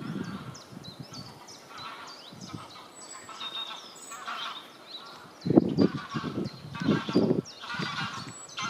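Songbirds chirping and singing together. From about five and a half seconds in, a run of loud, low honking calls, about two a second, joins in, typical of geese.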